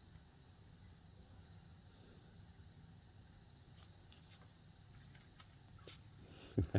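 Crickets chirring in a steady chorus, a continuous, finely pulsing high trill.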